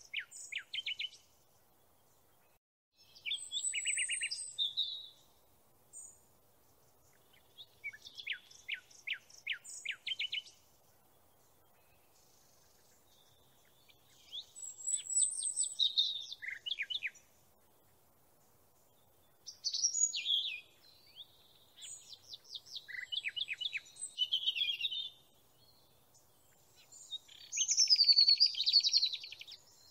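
Small songbird singing short phrases of rapid high chirps and trills, each a second or three long, with quiet gaps of a few seconds between; the loudest phrase comes near the end.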